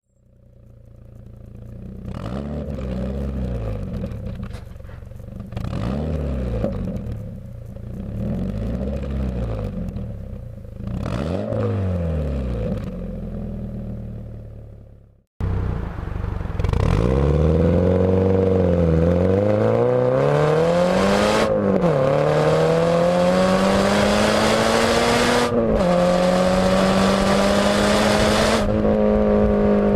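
Scion FR-S's 2.0-litre flat-four boxer engine through a Tanabe Concept G Medallion cat-back exhaust, first idling with four short throttle blips. After a cut it accelerates with the pitch climbing, falls twice as it shifts up, and then holds a steady pitch near the end.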